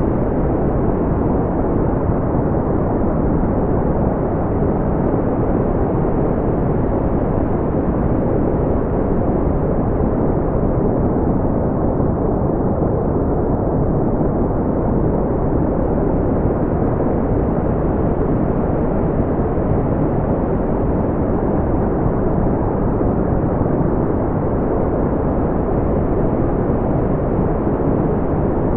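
Steady brown noise: a deep, even rumbling hiss with its weight in the low end and little above a few thousand hertz, unchanging throughout.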